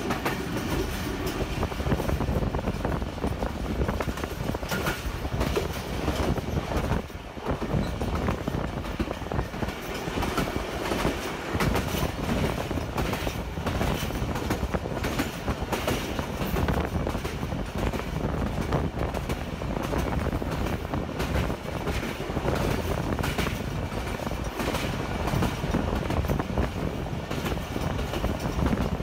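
A moving train's steel wheels running over the rails, a continuous rumble and rapid clatter heard from an open carriage window as it crosses a steel girder bridge.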